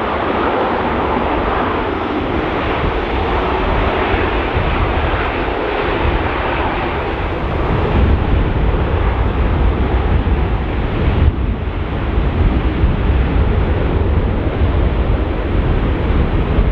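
Jet engines of a Boeing 737-800 (CFM56) running at takeoff power as it departs, a steady roar that thins out after about eight seconds, with gusty wind buffeting the microphone.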